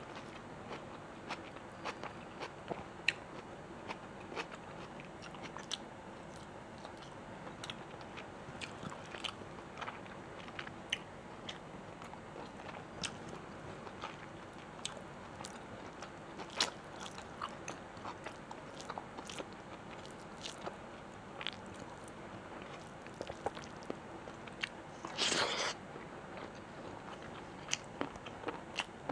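Close-miked chewing of food: many small wet mouth clicks and crunches scattered throughout, with a louder rough burst lasting under a second near the end.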